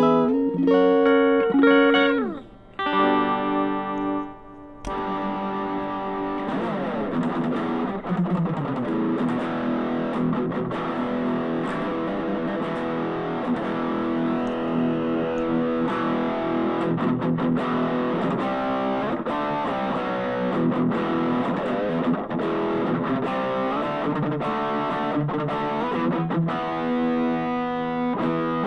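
Stratocaster-style electric guitar (Fusion brand) being played. It starts with clean, separate notes. About five seconds in it switches suddenly to a distorted tone through effects.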